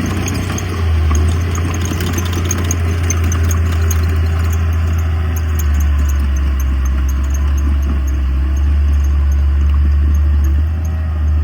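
Heavy earthmoving machine's diesel engine running with a steady low drone, its loudness swelling slightly a few times.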